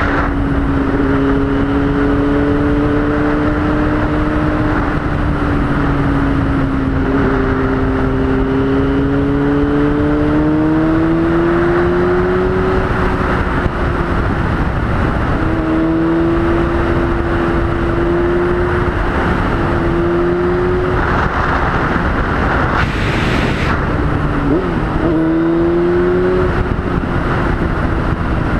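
2003 Yamaha YZF-R6's inline-four engine under way, its note climbing slowly in each gear and dropping sharply at several gear changes, over steady wind rush.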